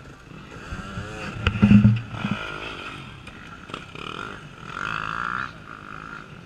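Off-road race motorcycle engine revving hard in a short burst about a second and a half in, with knocks and clatter, then running at lower revs.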